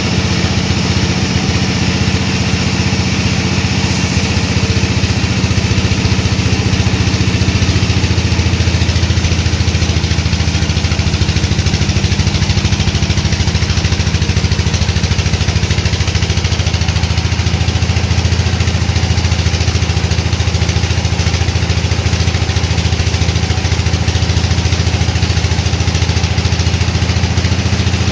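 Sawmill machinery running steadily, a deep even hum that grows a little louder about eight seconds in.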